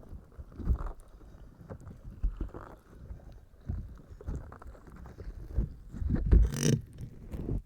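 Slime squished and pressed by hand close to the microphone: irregular soft squelches and thuds, with a louder crackly squelch about a second before the end.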